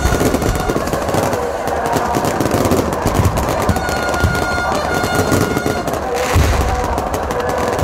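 Aerial fireworks going off: a dense, rapid crackle of bangs and pops like machine-gun fire, with a few heavier low booms about six seconds in.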